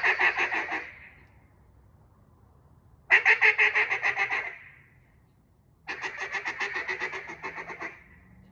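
Untuned Singleton Delrin cutdown duck call blown in three rapid strings of short, pulsed notes, about eight a second, each string lasting one to two seconds; the last string, near the end, is played softer.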